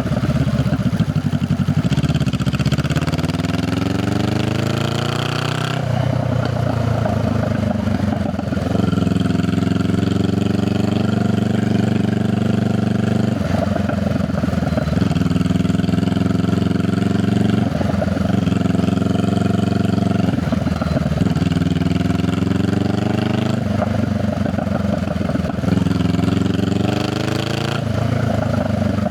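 Honda Rebel 500's parallel-twin engine and exhaust under way, rising in pitch as it accelerates through the gears, with a short break and a drop in revs at each upshift, several times over.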